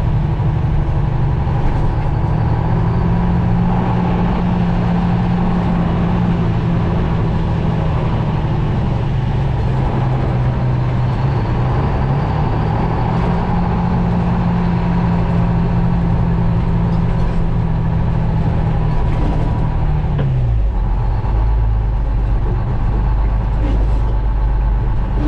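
Detroit Diesel two-stroke engine of a GMC Crackerbox semi truck running hard and steady. Its note dips briefly about halfway through and recovers, then falls away after about 20 seconds to a deep low rumble.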